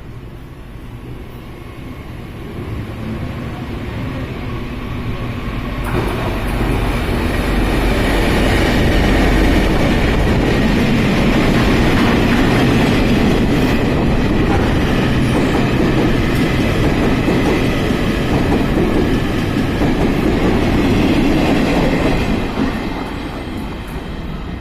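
Freight train hauled by Taiwan Railway diesel-electric locomotive R113 passing at speed without stopping, its wagons and coaches clattering over the rail joints. It builds from a low rumble, jumps to full loudness about six seconds in as it draws level, and fades in the last couple of seconds as the tail goes by.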